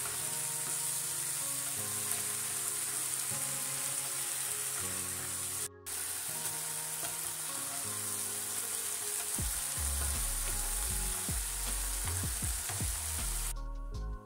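Diced mushrooms and onions in sour cream sizzling in a frying pan as a wooden spatula stirs them, over background music. The sizzle drops out briefly near the middle and stops shortly before the end, leaving only the music.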